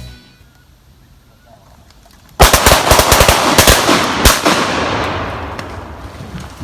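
A rapid volley of about eight shotgun shots over about two seconds, beginning two and a half seconds in, from duck hunters firing together. A long rolling echo fades away after the shots.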